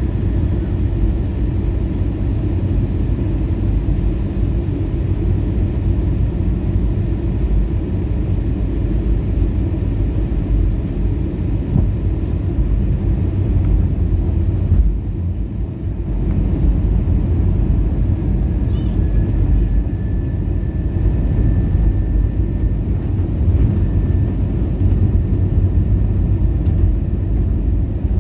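Airbus A320 cabin noise heard inside the cabin during the descent: a steady low rumble of airflow and the engines, which dips briefly about halfway through.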